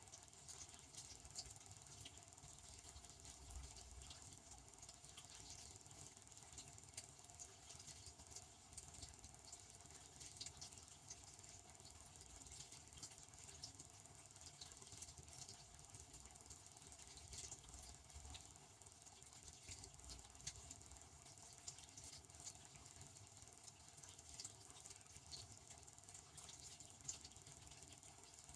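Devanti benchtop dishwasher running, heard faintly: a steady patter of water spraying inside the tub, many small irregular ticks over a soft hiss and a low hum.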